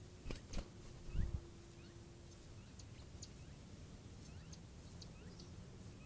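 Faint small-bird calls: short rising chirps repeated every second or so, with a few high, thin chip notes from about three seconds in. Two sharp clicks near the start and a low thump about a second in are the loudest sounds.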